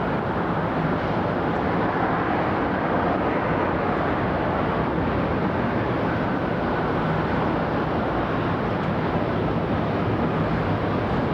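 Steady roar of jet aircraft engine noise, even and unchanging in level, with no single pass standing out.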